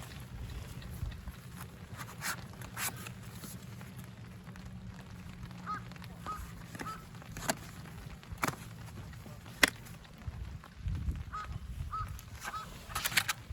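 A bird gives three short calls in quick succession about six seconds in, and three more about eleven seconds in. Scattered sharp clicks and knocks sound around them, over a steady low hum.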